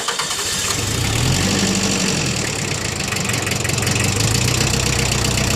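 Mitsubishi MT2201 compact tractor's four-cylinder diesel engine running just after starting. Its speed rises briefly about a second in, then drops back to a steady idle.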